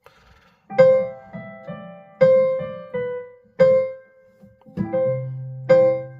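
A piano-toned keyboard plays slow chords, each struck and left to ring out, with the strongest coming about every second and a half. It comes in about a second in, after a brief gap.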